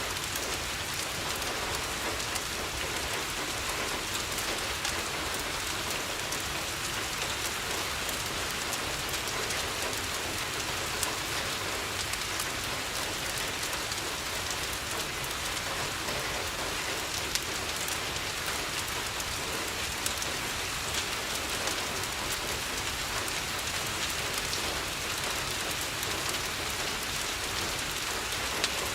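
Steady rain falling on a window, an even hiss sprinkled with many small scattered clicks.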